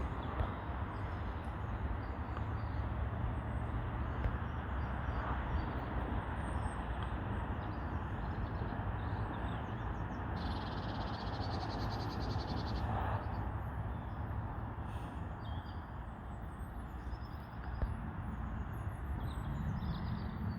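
Steady low wind rumble, with short bird calls here and there.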